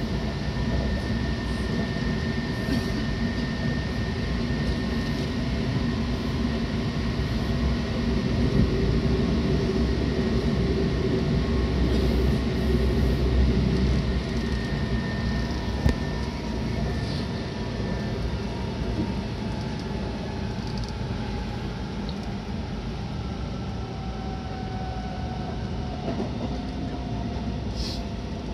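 Seibu 6000 series train with Hitachi GTO-VVVF traction, heard from inside the car: steady running noise with several motor tones. It swells midway, one sharp knock comes just past halfway, and in the second half a tone falls in pitch as the train slows into a station.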